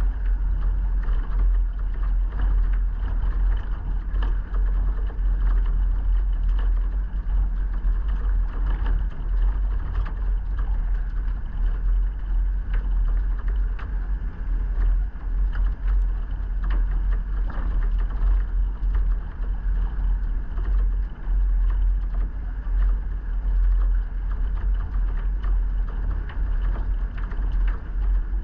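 A vehicle driving: a steady low rumble with frequent small knocks and rattles throughout.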